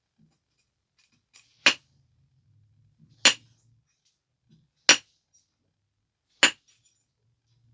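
Flintknapping on a stone biface: four sharp, glassy clinks about one and a half seconds apart as flakes are struck off its edge, each with a faint tick just before it.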